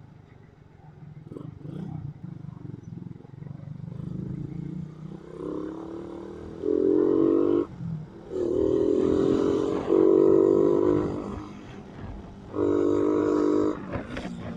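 Motorcycle riding in traffic: a low engine hum, then four loud, steady, pitched drones of about a second each, starting and stopping abruptly, from about six seconds in.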